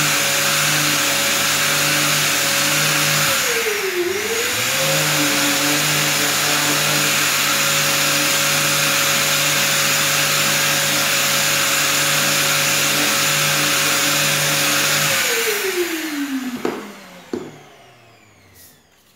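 Orbital sander with a 240-grit disc sanding plastic car trim: a steady whine with hiss. Its pitch dips briefly about four seconds in and recovers, then near the end it is switched off and winds down with falling pitch, with a couple of clicks as it stops.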